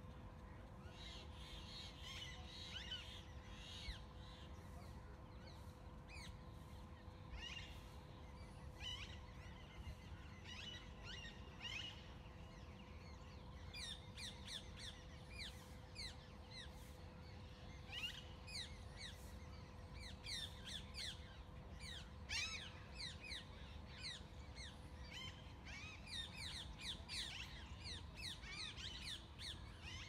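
Small birds chirping in many short, high, downward-sliding calls, sparse at first and much busier through the second half, over a faint steady hum.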